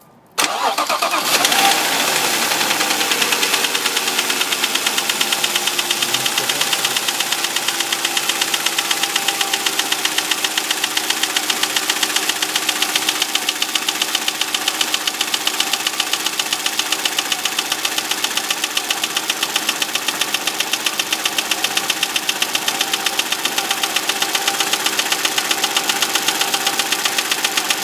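Audi A6 C6's 2.4-litre BDW V6 engine starting, its revs flaring and falling for a couple of seconds, then idling steadily with a fast, regular knock. The previous owner put this knock down to the hydraulic lifters, but it points to a worse fault.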